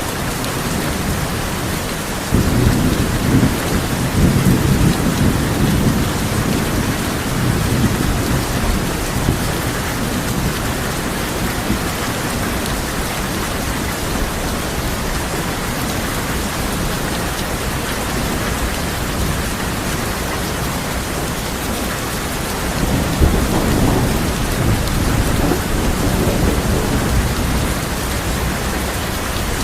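Steady heavy rain drumming on a tin roof, with two rolls of thunder: one rumbles in a couple of seconds in and fades over about six seconds, and a second comes near the end.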